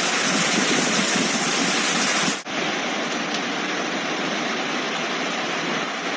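Floodwater rushing through a street, possibly with heavy rain, a steady loud rushing noise. About two and a half seconds in it breaks off briefly and gives way to a similar but slightly thinner steady water noise.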